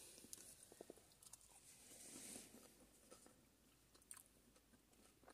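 Faint chewing of a mouthful of chip, with a few soft small clicks.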